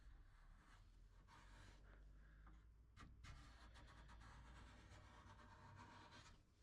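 Near silence, with faint scratching and rubbing over a low steady hum.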